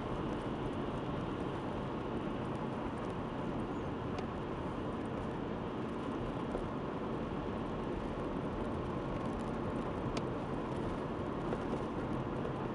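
Mazda 3 (BK) driving, with steady road and engine noise and two faint sharp clicks, about four seconds in and near the end.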